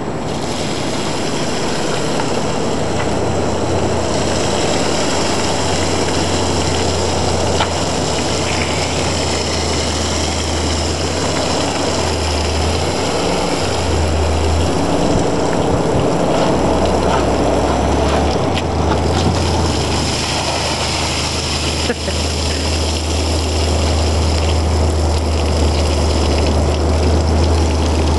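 Rainwater pooled in a pickup truck's bed, moving and splashing as a steady rush, over a low hum that shifts in pitch several times.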